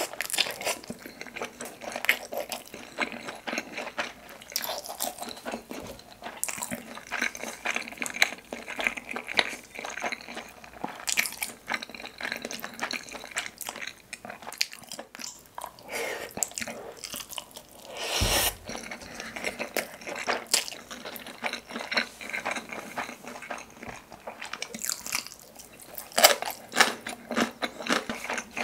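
Close-miked chewing of spicy tteokbokki and a seaweed rice ball: wet, sticky mouth sounds with many short smacks and clicks.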